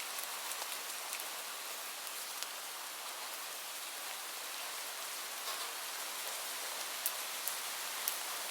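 Steady rain falling on a surface, an even hiss with a few sharper individual drops near the end.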